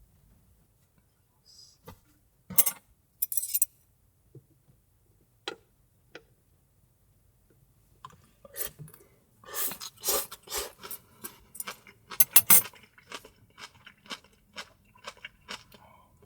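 Close-up handling noises: a few isolated clicks and crinkles at first, then from about eight seconds in a busy run of sharp clicks, taps and crackles.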